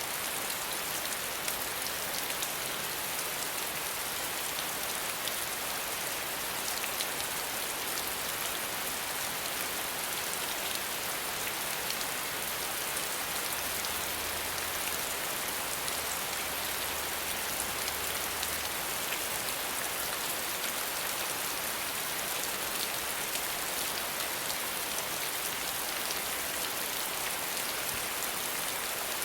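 Steady rainfall, a dense even hiss of many fine drop ticks on a surface.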